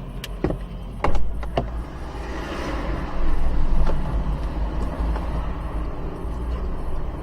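Car's steady low engine and road rumble, with a few sharp clicks in the first two seconds and a swell of noise a little before the middle.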